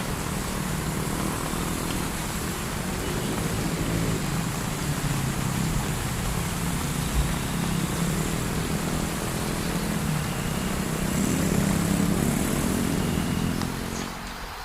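Motorcycle engine running in slow traffic, its hum rising and falling, over the steady hiss of heavy rain; the engine sound drops away near the end.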